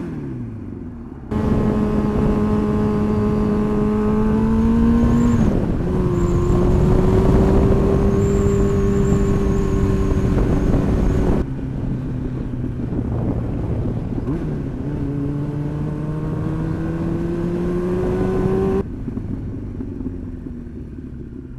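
Sportbike engine pulling under throttle with wind rushing past. The engine pitch climbs slowly, drops once as it shifts up about five seconds in, then falls back off the throttle, climbs again and eases off near the end.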